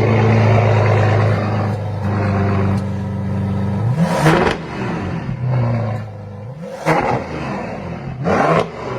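Bentley Bentayga Mansory edition's engine running with a steady drone, then revved in three sharp blips, about four, seven and eight and a half seconds in.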